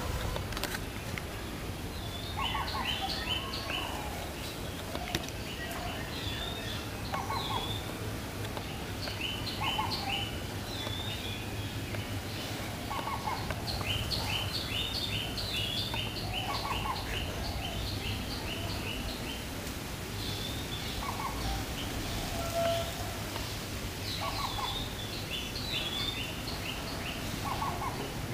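Birds calling: a short call repeated every two seconds or so, with bursts of rapid high chirps in between, over a steady low background hum.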